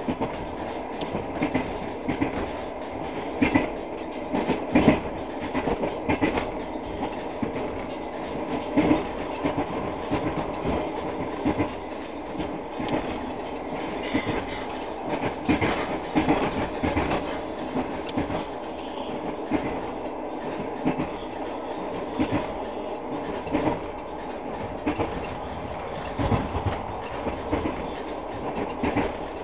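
Passenger train in motion, heard from inside a carriage: a steady rumble of the running gear with repeated clacks of the wheels over rail joints.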